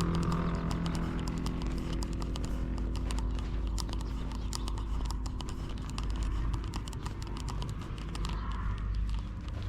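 Rapid, irregular clicks and scuffs over a low rumble: movement noise from a GoPro worn on a cat's body as the cat moves about.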